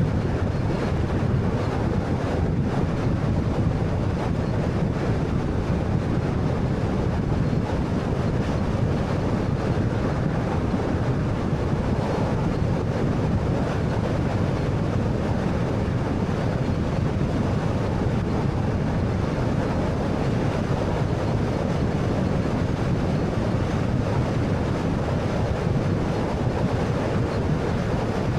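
Steady road noise of a 2013 Honda Fit 1.3 on the move: a deep, even rumble of tyres, wind and engine that holds constant throughout.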